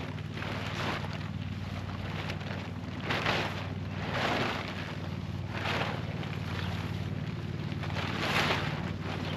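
Nylon tent fabric rustling and swishing in several separate bursts as a tent is put up, over a steady low hum.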